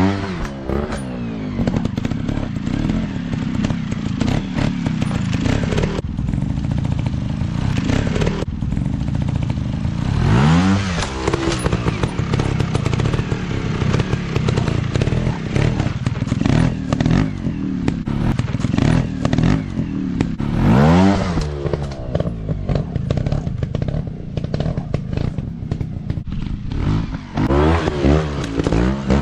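Dirt bike engines running and revving hard, the pitch sweeping up and falling back several times, most sharply right at the start, about ten seconds in, around twenty seconds in and near the end, with clatter underneath.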